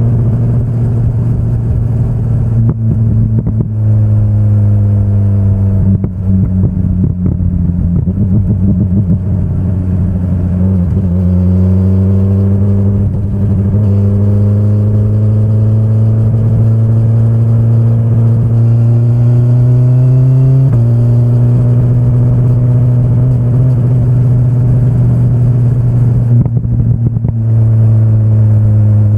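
BMW S1000RR's inline-four engine pulling under throttle, its pitch climbing slowly through a gear. About two-thirds of the way through, an upshift drops the pitch suddenly, and it falls again near the end as the throttle eases.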